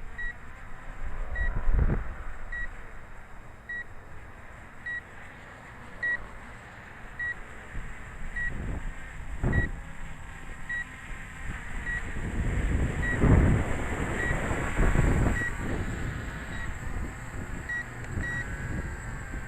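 Gusts of strong wind buffeting the microphone in low rumbles, loudest about two seconds in and again from about thirteen to fifteen seconds. Under them, a short high electronic warning beep repeats about once a second.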